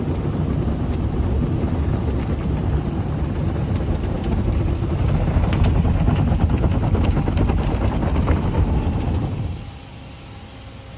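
Automatic car wash machinery running loud, heard from inside the car: a steady rushing noise with scattered sharp ticks. It cuts down sharply about three quarters of the way through, leaving a quieter steady hum.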